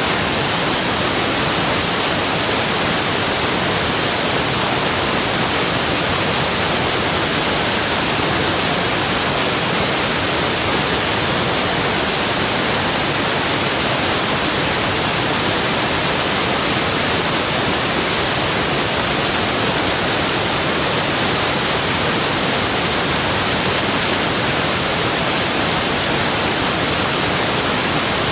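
Waterfall: a steady, even rush of falling water like white noise, with no change in level.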